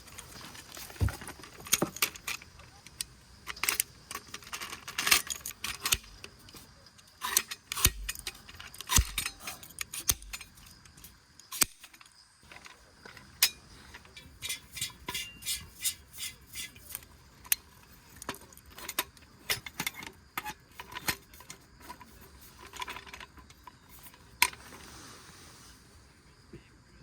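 Cooking utensils and dishes clinking and clattering in food preparation: scattered sharp taps and knocks, with a quicker run of even strikes around the middle.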